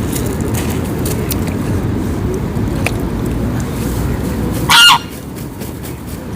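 A waterfowl gives one short, loud honk nearly five seconds in, over a steady low background rumble.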